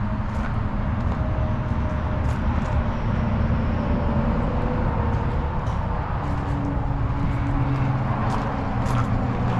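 Small open-top MG Midget on the move: the engine runs steadily under a constant low rumble of road and wind noise, and its note shifts in pitch a few times.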